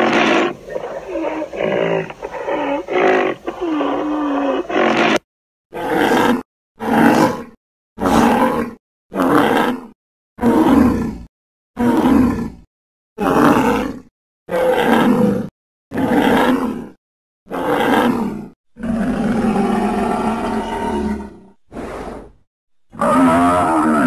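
Designed creature vocalisation for Elasmotherium, the extinct giant rhinoceros: a run of deep, wavering grunts and groans, then about a dozen short grunts, one every second or so, each with a clean gap of silence between. Near the end comes a longer, breathier call, followed by a brief grunt and one more groan.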